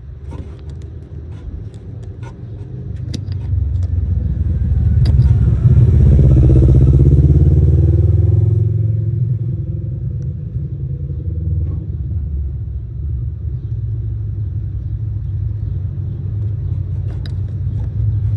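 Truck's 4.8-litre LS V8 engine running. Its speed rises over a few seconds, is highest about six to eight seconds in, then drops back to a steady idle.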